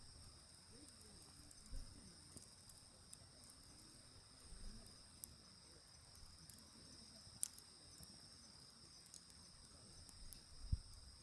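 Wood fire burning in a mesh fire pit, faintly crackling with scattered small pops and snaps and a couple of duller thumps about two seconds in and near the end. A steady high insect trill, like crickets, runs underneath.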